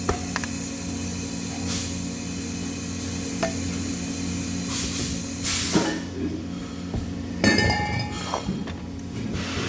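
Metal pieces clinking and knocking against each other, several separate strikes with a short clatter about three quarters of the way in, over a steady electrical hum.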